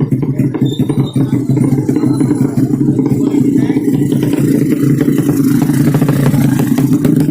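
200cc underbone racing motorcycle engine running loud and steady at a fairly constant speed, with no clear rise in pitch.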